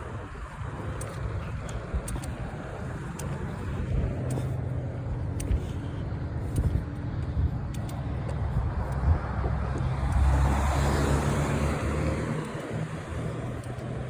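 Road traffic with a low steady rumble; a car passes about ten seconds in, its tyre and engine noise swelling and then fading.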